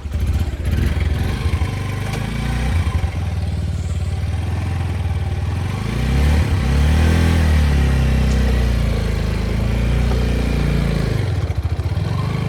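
TVS Apache motorcycle engine running, the revs rising and falling in the middle before settling back to a steady note.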